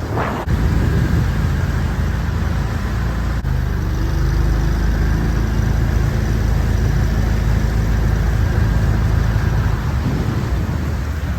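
Jon boat's motor running under way, throttling up about half a second in and easing off near the end, with a steady rush of wind and water over it.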